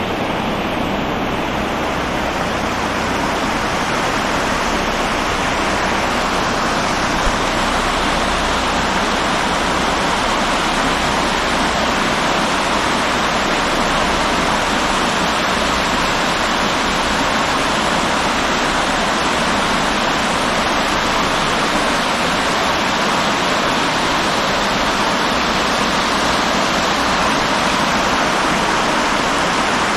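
River water rushing steadily, a loud, even rush with no let-up.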